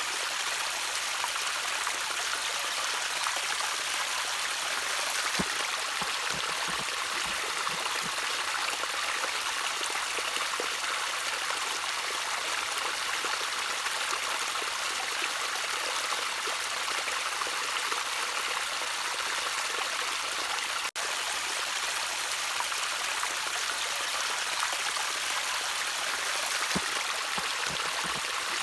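Gently trickling stream water: a steady, even splashing hiss, with a few soft low gurgles now and then.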